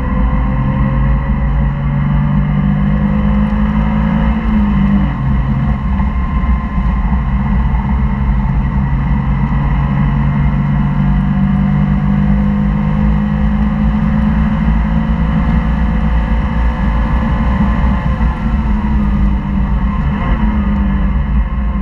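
Porsche flat-six engine heard from inside the cabin, running hard at track speed over steady road and wind noise. The engine note holds steady for long stretches and shifts about five seconds in and again near the end, where the driver changes gear.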